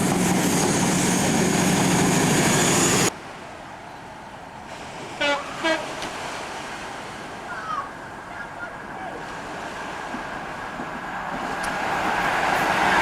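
A passing train's running noise cuts off suddenly about three seconds in. Quieter ambience follows, with two short toots in quick succession. Near the end the noise of another train grows louder as it approaches.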